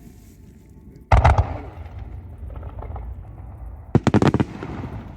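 Aerial fireworks shells bursting: a quick cluster of loud bangs about a second in, then a rapid run of five or six bangs near the end, with a low rumble carrying on between them.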